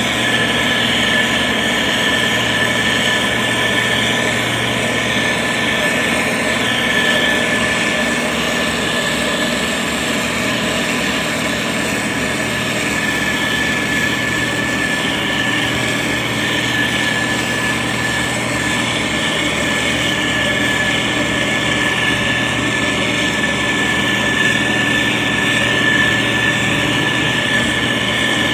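Heavy diesel engine of a SANY STG190C-8S motor grader running steadily, with a constant high whine over the engine rumble.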